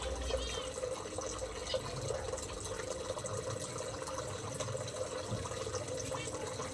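Steady running water, like water pouring into a container, with a few short high chirps from small aviary birds about a third of a second in.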